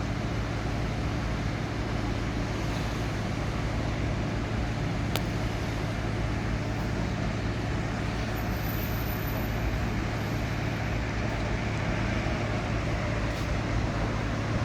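Steady low engine drone of the flood-water pumps running continuously, with a constant hum.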